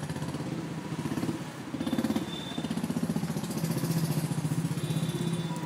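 Car engine running with a rapid, even throb that swells a little about two seconds in.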